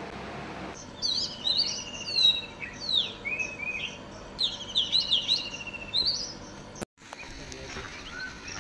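Oriental magpie-robin singing: a varied run of clear whistles with a fast trill that slides down in pitch, in two phrases over about five seconds, stopping a little before the end.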